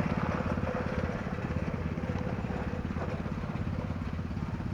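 A small engine running steadily with a fast, even putter, slowly fading.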